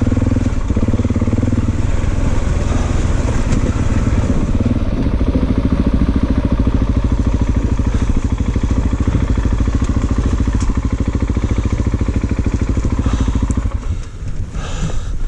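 Big single-cylinder dual-sport dirt bike engine running steadily close to the microphone, with a rapid, even firing pulse. It drops away and breaks up near the end.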